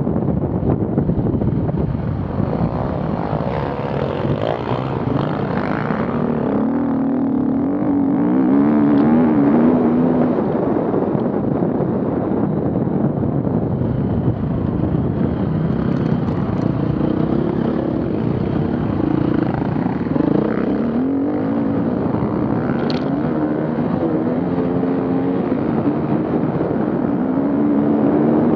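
Off-road vehicle engines running and revving, their pitch rising and falling repeatedly as they drive a course, over a steady rumble and noise.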